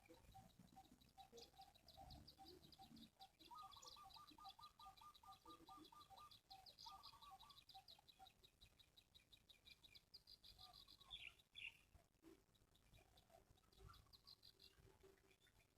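Faint, rapid chirping of small birds: fast high-pitched trills of many short notes each second, with a lower run of quick notes a few seconds in. The high trill breaks off about eleven seconds in, leaving sparser chirps.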